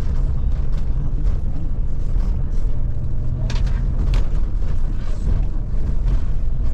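Scania Touring coach driving, heard from inside the cabin: a steady low rumble of engine and road, with a few short rattles about halfway through.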